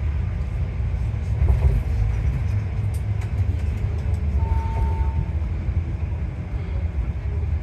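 Tour bus driving, heard from inside the cabin: a steady low engine and road rumble. A brief faint tone sounds about halfway through.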